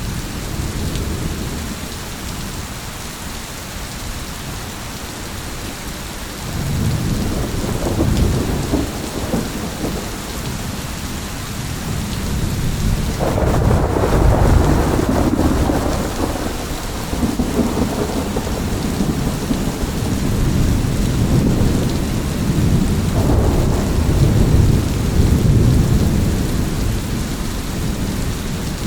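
Thunderstorm: steady rain with rolling thunder. Low rumbles swell in about a quarter of the way through, rise to their loudest around the middle, and roll in again near the end.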